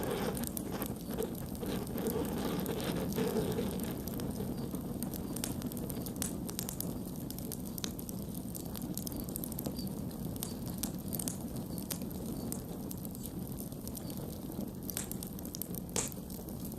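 Campfire burning: a steady low rush of flames with scattered sharp crackles and pops, one louder pop near the end.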